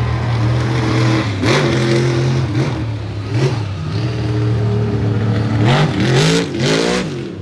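Monster truck engine running loud and being revved: short sharp blips in pitch a few times, then a quick series of revs near the end.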